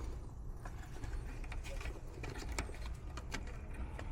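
Light, scattered clicks and small handling noises from hands working loose control wiring, over a steady low hum.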